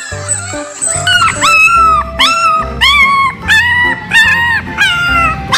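A dog giving a quick run of about eight short, high-pitched yelps, roughly two a second, starting about a second in. Background music with a steady beat runs underneath.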